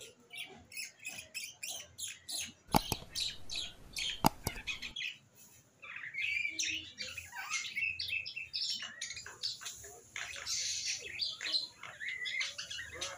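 Small birds chirping in quick, repeated short calls throughout. A rough scraping noise runs for about two seconds, starting near three seconds in.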